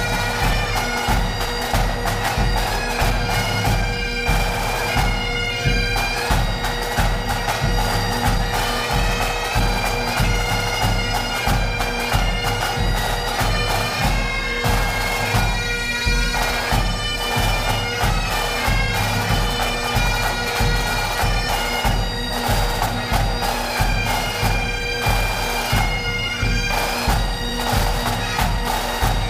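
Bagpipes playing a tune over their steady drones, with a regular beat underneath.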